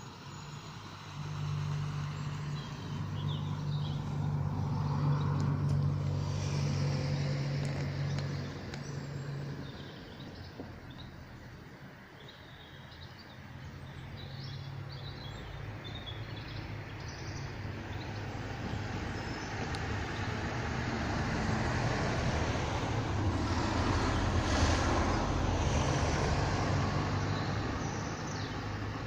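Motor vehicles passing on a road: one swells up and fades away in the first ten seconds, then a second builds up more slowly, peaks about three quarters of the way through and fades off.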